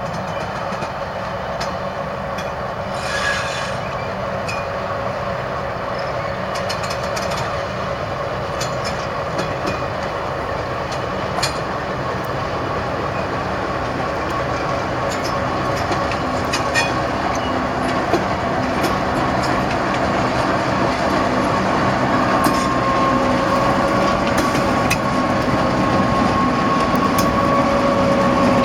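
Freight train rolling past: a steady rumble of wagons with scattered clicks of wheels over rail joints, slowly growing louder. A steady high wheel squeal joins about two-thirds of the way through.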